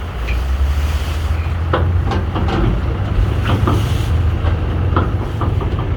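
Heavy engine running with a steady low rumble, with scattered clicks and knocks over it and a brief hiss about a second in.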